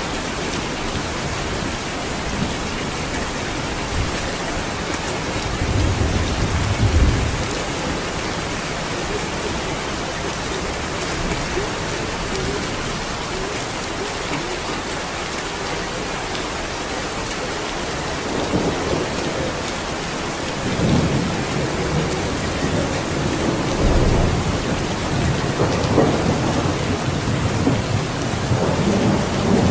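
Steady rain falling, with low rolls of thunder rumbling in about six seconds in and again several times in the last third.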